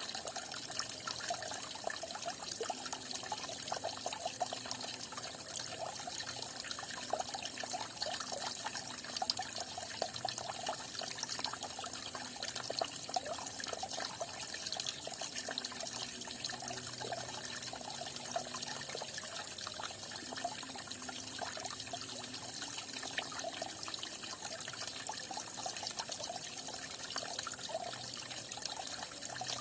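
Falling water splashing and trickling steadily, a continuous run of small splashes with no break.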